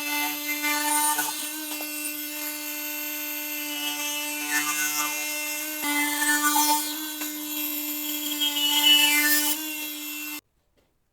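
Electric power tool cutting wood: its motor runs at a steady pitch, swells louder a few times as it bites into the wood, then cuts off suddenly near the end.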